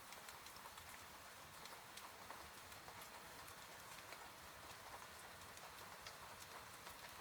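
Faint steady rain, with scattered drops tapping irregularly on a hard surface.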